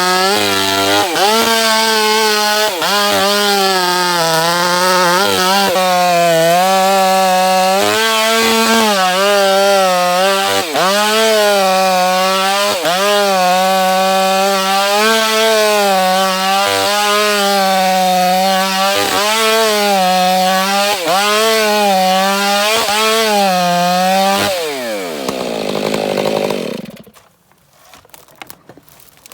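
Chainsaw at full throttle cutting through timber, its engine pitch dipping briefly every second or two as the chain loads up in the wood. About 25 seconds in the throttle is released and the engine falls to idle, then goes much quieter.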